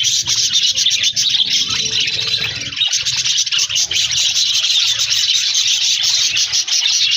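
A flock of budgerigars chattering and chirping without a break, many birds calling at once in a dense high twittering.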